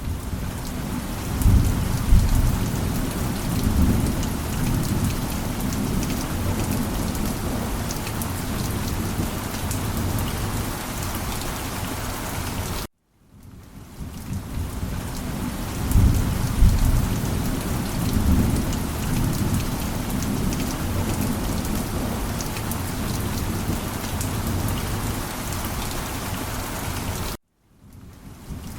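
Steady rain with low rumbles of thunder that swell twice, about fifteen seconds apart. The sound cuts out briefly near the middle and again near the end, and the same rain-and-thunder stretch starts over after each cut.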